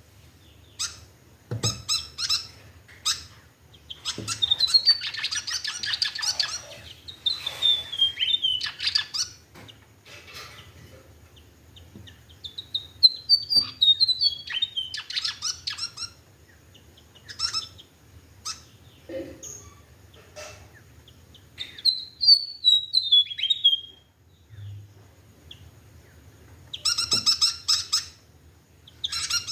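A bird chirping and calling: several runs of quick chirps that rise and then fall in pitch, between short harsh squawks, with a cluster of squawks near the end.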